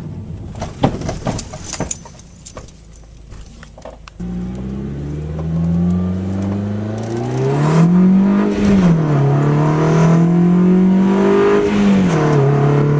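Car engine accelerating through the gears: its pitch climbs, then drops sharply at two upshifts, about eight and twelve seconds in. A few sharp knocks come in the first two seconds, before the engine comes in about four seconds in.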